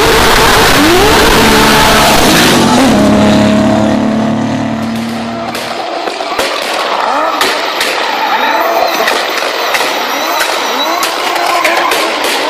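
Tuned turbocharged car accelerating hard, its engine pitch climbing through two gear changes. About six seconds in, the deep engine sound gives way to a rapid string of sharp pops mixed with short rising squeals.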